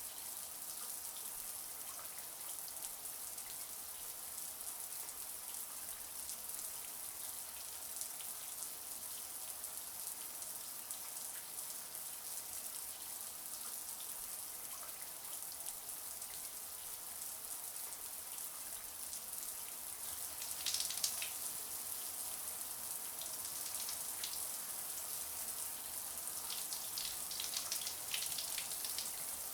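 Shower running steadily, a high hiss of falling spray, with short bursts of louder splashing about two-thirds of the way in and again near the end.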